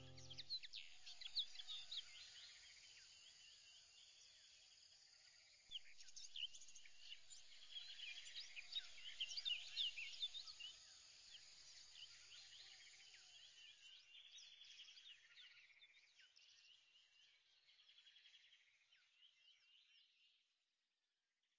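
Faint chorus of many small birds chirping and twittering, dying away about twenty seconds in.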